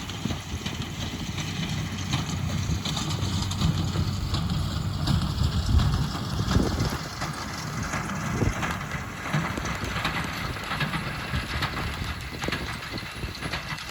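Tractor running with the hay baler working, a steady low rumble.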